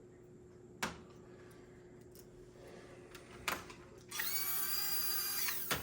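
HO-scale AFX Super G-Plus slot car motor and gears spinning up to a high, steady whine for about a second and a half near the end, dipping in pitch as it cuts off; the rear axle gears have just been oiled. Two sharp clicks come earlier.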